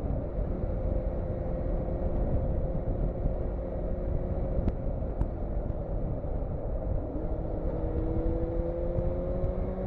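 Motorcycle engine heard on board while riding, under a heavy low wind rumble. The engine note holds steady for about five seconds, then from about seven seconds in it climbs slowly as the bike accelerates.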